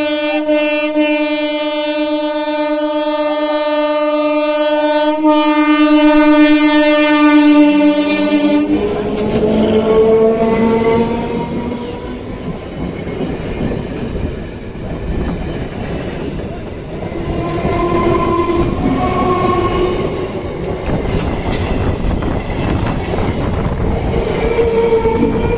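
An EMU local train sounds one long, steady horn blast as it approaches, and the horn cuts off about nine seconds in. The train then runs close past, its wheels rumbling and clattering on the rails.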